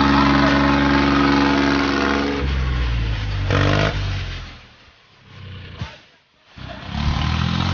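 Diesel tractor engine running hard, as in a tractor tug-of-war; its pitch drops about two and a half seconds in. The sound then fades almost to nothing for about two seconds, broken by a single click, before the engine is heard again near the end.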